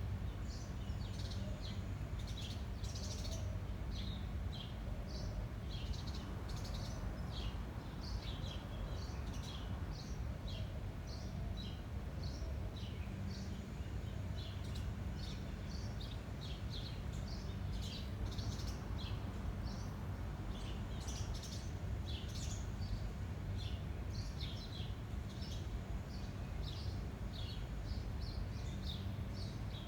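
Small birds chirping in many short, overlapping calls throughout, over a steady low rumble of wind on the microphone.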